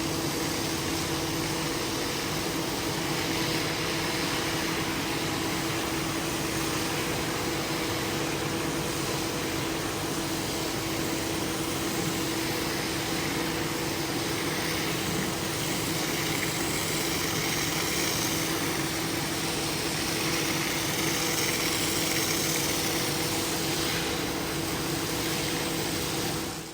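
A cleaning machine's motor running steadily: a constant hum under an even rushing hiss, cutting off suddenly at the end.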